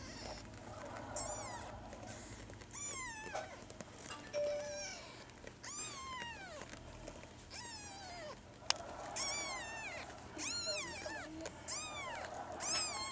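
Kittens mewing: a string of about ten high-pitched meows, each rising then falling in pitch, coming more often toward the end. A single sharp click sounds a little past the middle.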